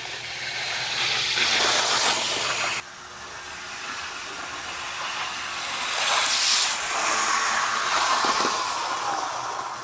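HO-scale Athearn model diesel locomotive with a flywheel drive running on the track: a steady whir of motor, gears and wheels on rail. It drops off abruptly about three seconds in, swells again, then slowly fades as the locomotive coasts down.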